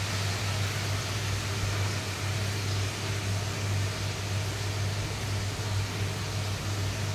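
Fish frying in oil in a pan, a steady sizzle, over a steady low hum.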